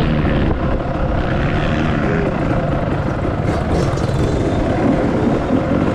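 Dirt bike engine running steadily, a loud continuous drone.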